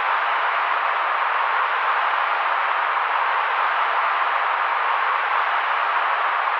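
Steady white-noise sleep-aid track: an even, unchanging hiss centred in the middle range, with little deep rumble and no high sizzle.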